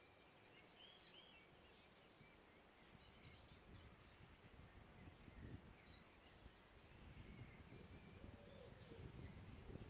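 Faint songbirds chirping and warbling in short scattered phrases in a forest, with a low rumble that comes and goes from about three seconds in.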